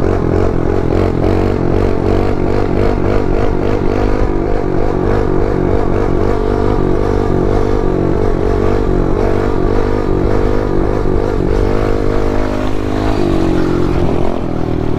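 Pit bike engine running under way at fairly steady revs, with a brief change in revs about two seconds before the end.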